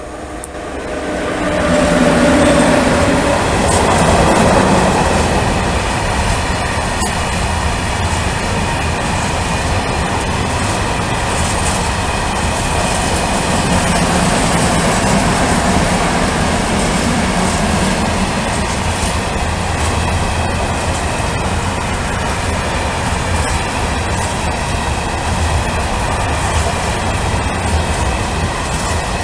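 PKP Cargo ET22 six-axle electric freight locomotive passing close by with a hum from its motors, followed by a long train of open coal wagons rolling past with a steady rumble and rhythmic clickety-clack of wheels over rail joints. The sound swells quickly in the first couple of seconds as the locomotive goes by, then holds steady through the wagons.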